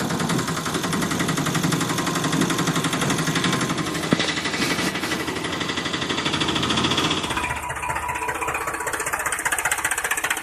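Engine running with a fast, even knocking rattle. Its sound changes and thins about seven seconds in.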